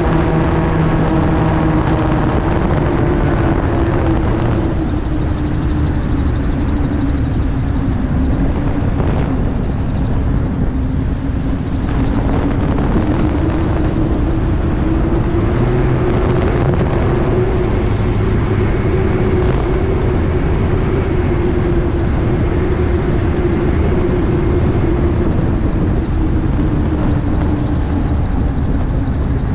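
MTO-S gyroplane's engine and pusher propeller running in flight, with a steady rush of wind and rotor noise. The engine pitch sinks over the first several seconds, rises again about halfway through and eases off near the end, as the throttle is worked.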